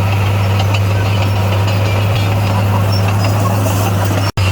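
Heavy diesel engine of a bulldozer running steadily with a low, even drone. The sound cuts out for an instant near the end and resumes.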